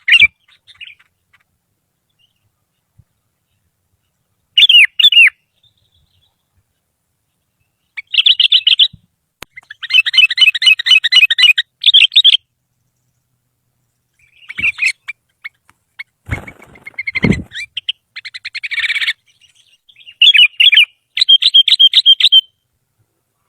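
Sooty-headed bulbul (kutilang) singing: short phrases of quick, whistled, warbling notes, several a few seconds apart with pauses between.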